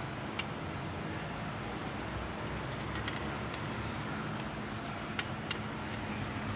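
A few sharp, isolated metallic clicks of small metal parts being handled, over a steady background hum.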